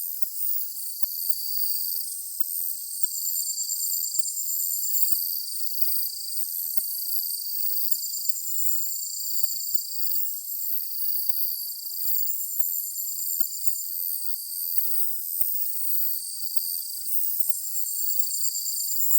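Summer evening chorus of chirping insects: several overlapping high-pitched pulsed chirps at different pitches, each repeating in short runs, with nothing in the low range.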